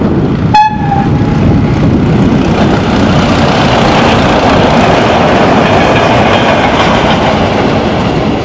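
TFG diesel multiple unit passing close by on the station track: a short, high horn toot about half a second in, then the rumble of the railcar and its wheels on the rails, loudest in the middle as it goes past.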